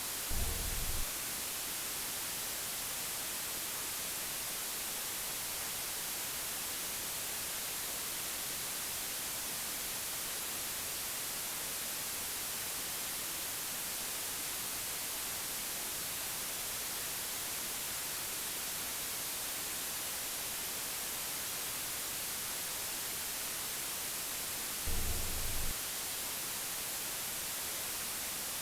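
Steady white noise, an even hiss strongest in the high frequencies. Two brief low thumps break in, one at the start and one near the end.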